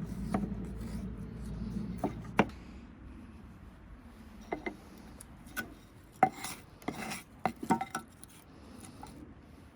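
Camp gear being handled: a series of sharp metallic clinks and knocks with brief ringing, some with a scraping rub, scattered irregularly after a low hum that fades out about two seconds in.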